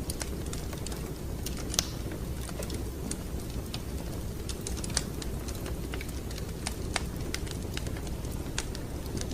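Wood fire crackling in a fireplace: irregular sharp pops and snaps over a steady low rumble of the burning fire, with a louder pop about two seconds in and a few more later.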